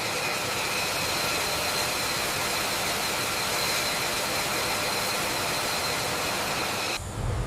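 Steady machine noise, a hiss with a high, even whine over it, that cuts off abruptly about seven seconds in and gives way to a lower rumble.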